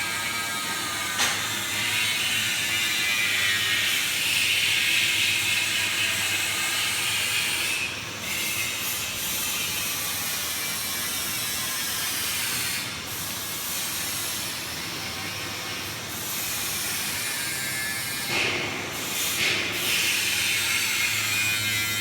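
PVC flexible duct forming machine with steel-strip reinforcement running steadily: a continuous mechanical hiss and whir over a low hum. There is a sharp click about a second in and a few knocks near the end.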